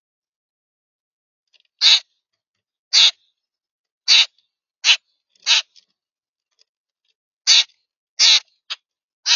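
A bird giving a series of loud, harsh, crow-like calls, about one a second, each short and rasping.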